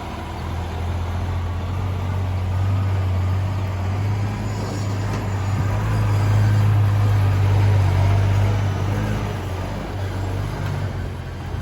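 Engine of a heavy working vehicle running with a deep steady hum, growing louder to a peak past the middle and then easing off, as it comes closer and moves away.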